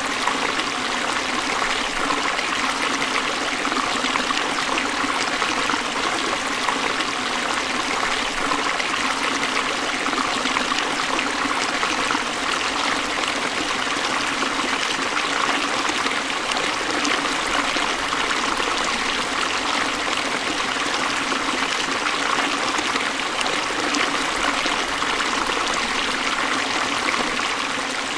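Forest stream flowing steadily, water running and trickling over rocks.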